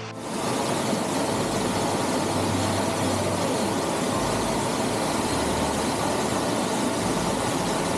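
Waterfall roar, a loud steady rush of falling water close to the microphone, starting abruptly just after the beginning.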